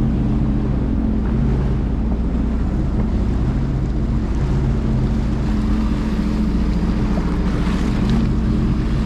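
Jet ski engine running at a steady speed with a constant drone, over wind buffeting the microphone and water rushing past the hull.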